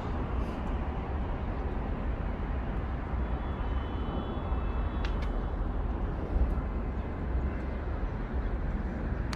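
Steady low rumble of city traffic, with faint high squealing tones from about three seconds in and a single click about five seconds in.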